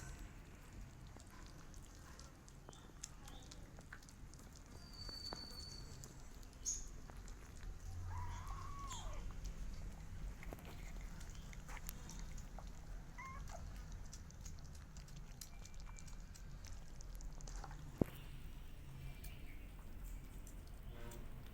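A cat meowing a few times, short calls that rise and fall in pitch, the clearest about eight seconds in, among faint scattered clicks and one sharp click near the end.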